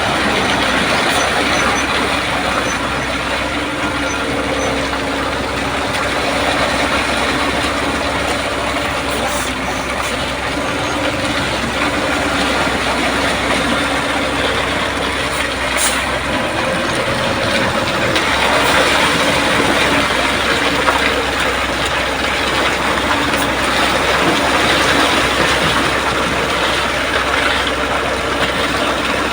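Concrete mixer truck's diesel engine running steadily, a constant loud wash of noise with a few faint steady hums and no change in level.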